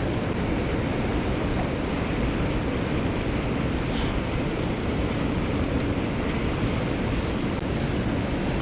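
Mountain stream running, a steady rush of water with no let-up, and a faint click about four seconds in.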